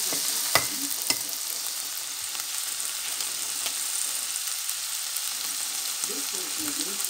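Shredded cabbage sizzling steadily in a hot cast-iron skillet, a steady frying hiss, with two sharp clicks about half a second and a second in.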